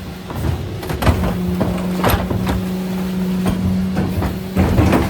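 Mercedes Econic refuse truck running. A steady hum comes in about a second in, and several sharp knocks and clunks from the truck's working gear and bins sound over it.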